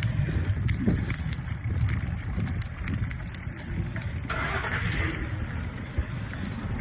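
Wind buffeting the phone's microphone while a bicycle is ridden: a low, unsteady rumble, with a brief hiss about four seconds in.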